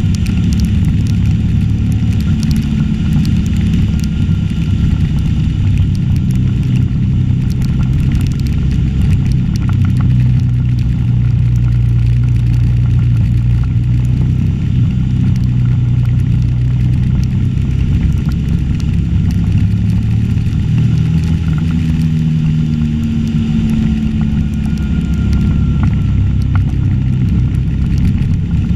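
Suzuki V-Strom 650's V-twin engine running at a steady cruise on the road, under a loud rush of wind noise.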